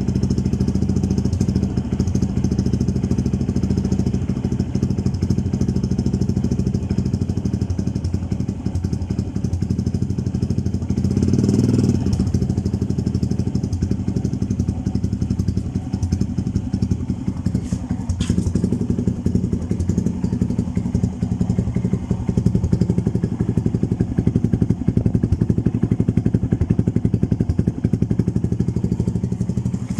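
Motorstar Easyride 150N motorcycle engine running fairly loud through a slip-on bullet pipe with no silencer, in a steady idle. It is briefly louder about twelve seconds in.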